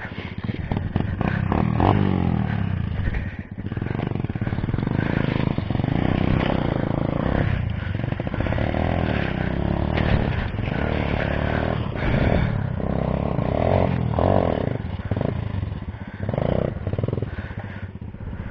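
Motorcycle engine running, its pitch rising and falling repeatedly as the throttle is opened and closed, with a few short knocks and clatters.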